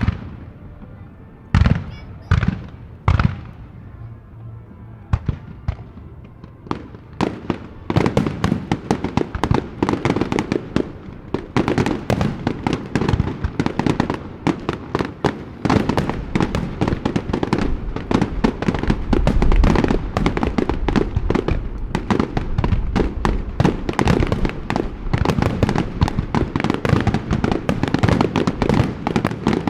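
Aerial fireworks bursting. A few separate booms come in the first seconds, then from about eight seconds in a dense, rapid-fire barrage of bangs and crackles carries on without a break.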